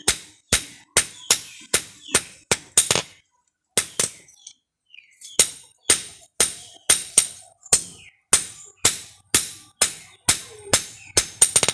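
Hand hammer striking steel in steady, ringing blows, about two a second, typical of a blacksmith hammering a saw blade. The blows quicken briefly, stop for about two seconds, then resume and come closer together near the end.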